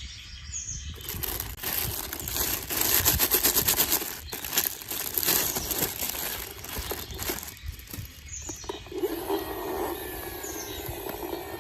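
Irregular rustling and crackling with many scattered small clicks, louder in the middle stretch, and a steady low hum coming in near the end.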